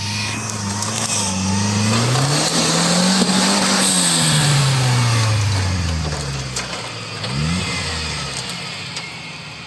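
A car engine revving up over about three seconds and easing back down, then a brief second rev before it fades away, with a hiss alongside at its loudest.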